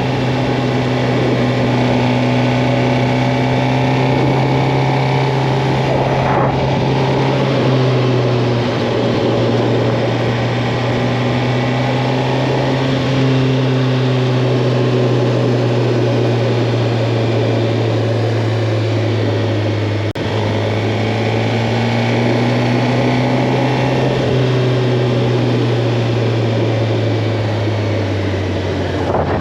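Suzuki GSX-R 750's inline-four engine running at a steady cruising speed while riding, over steady wind noise. Its pitch holds fairly even, dips slightly about eight seconds in and again around twenty seconds, and falls near the end.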